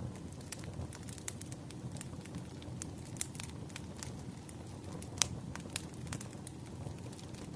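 Firewood burning, crackling with irregular sharp pops over a steady low rush of the flames.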